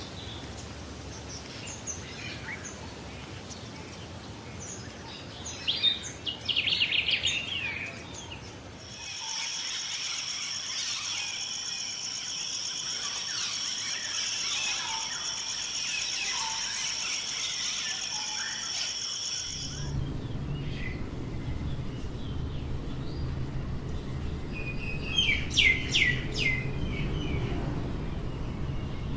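Forest birds calling and chirping, with a burst of loud chirps about six seconds in. From about nine seconds a steady, pulsing high insect trill takes over for some ten seconds and stops abruptly. After it comes a low steady hum, with a few loud downward-sweeping bird calls near the end.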